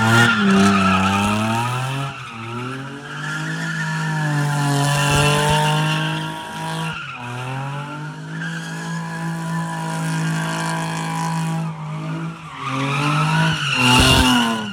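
A car engine held at high revs while its tyres squeal, as in a burnout or drifting. The revs drop briefly a few times and rise again.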